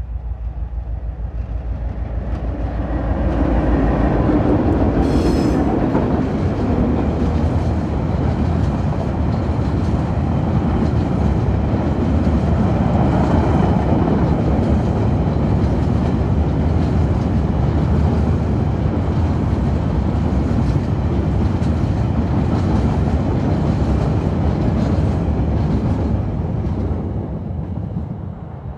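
Two TasRail diesel-electric locomotives approach and pass with their engines running, loudest about four seconds in. A long rake of empty coal hopper wagons then rolls by with a steady clatter of wheels on the rails, fading away near the end.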